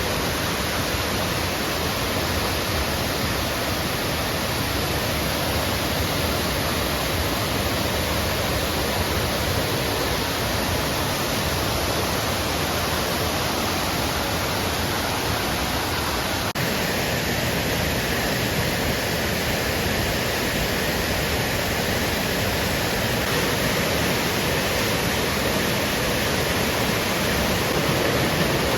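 Waterfall: a loud, steady rush of falling water, with a brief click about halfway through after which the sound changes slightly.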